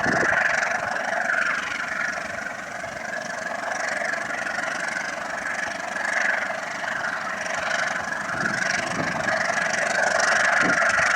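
Engine running steadily, its sound swelling and fading over a few seconds, with a few low thuds near the end.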